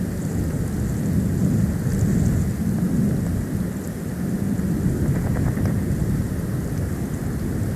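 Storm wind buffeting the nest cam's outdoor microphone in a snowstorm: a steady, low rumbling that swells and eases, with faint scattered ticks.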